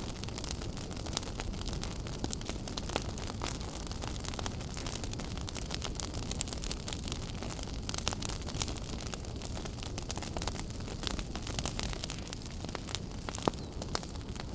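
Wood fire burning in a fireplace: a steady low rumble of flames with frequent sharp crackles and pops, a few louder snaps among them.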